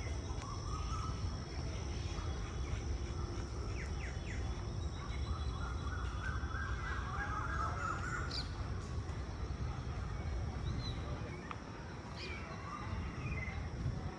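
Outdoor park ambience: birds chirping and calling here and there, including one longer call about midway, over a low steady rumble.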